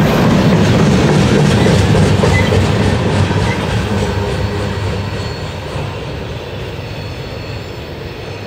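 Freight cars rolling past on jointed rail, wheels clicking and rumbling, fading after about three seconds as the tail end of the train moves away.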